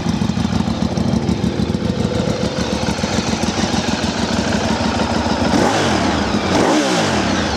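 Ducati 848 EVO Corse SE's 849cc liquid-cooled L-twin idling with a rapid, even pulsing beat, then revved quickly twice near the end, the pitch sweeping up and dropping back each time.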